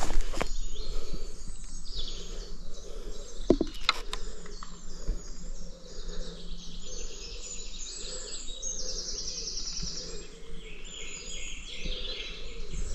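Woodland birds singing, many overlapping chirps and trills, with one fast rattling trill near the middle. A couple of sharp clicks sound about three and a half seconds in.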